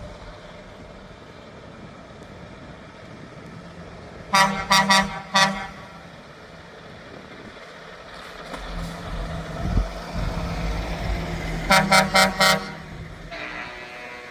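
Truck air horns sounding in two groups of short blasts, about four blasts a few seconds in and another quick run of about five near the end, over the low rumble of truck engines, which swells as a truck passes in between.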